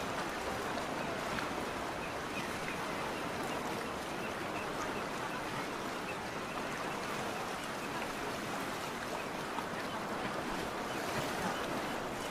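Seaside ambience: a steady wash of water and breeze with no distinct events.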